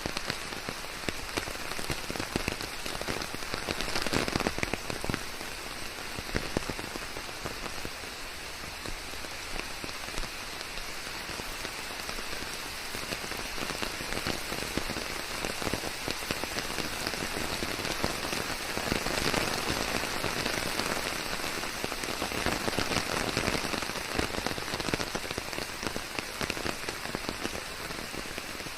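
Steady rain falling on leaves, a dense patter of many drops that swells slightly a few times.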